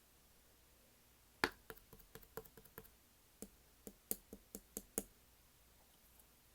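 Slime being handled, making a string of sharp little clicks and pops: one louder click about a second and a half in, then about a dozen quieter ones over the next three and a half seconds.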